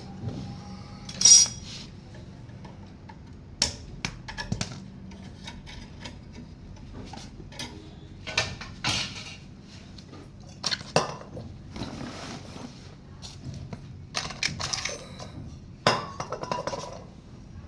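Irregular metallic clinks and knocks, as metal tools and fittings are handled, some briefly ringing, over a low steady hum.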